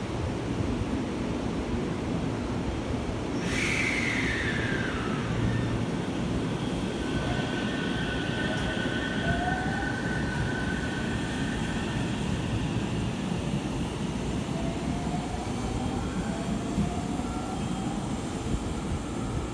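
JR Central 313 series electric train running, with a steady rumble of wheels on the rails. A high whine falls in pitch a few seconds in, and fainter whines rise in pitch later.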